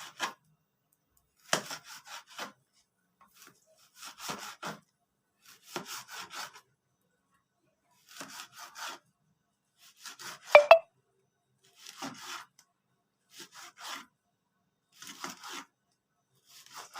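Knife cutting through frozen liver in thin slices, each slice a short burst of sawing strokes, repeating every second or two. A louder clink with a brief ringing tone comes about ten and a half seconds in.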